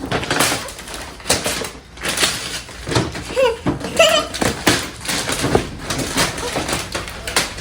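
Gift wrapping paper being torn and crumpled by hand, in a run of repeated rustling rips.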